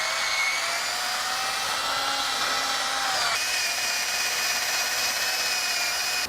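Handheld electric power tool, such as a drill, running steadily with a high whine; its pitch shifts about three seconds in, and it stops at the end.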